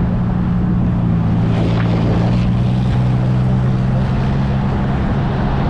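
Steady engine drone from the vehicle being ridden, holding one low pitch, under a haze of road and wind noise.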